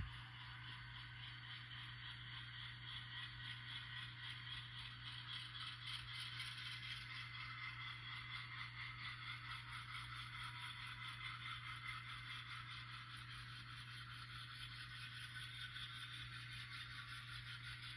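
N scale model train running on the layout track: a fast, even rattle and clatter of the small wheels and mechanism. It grows louder over the first few seconds and eases off after the middle.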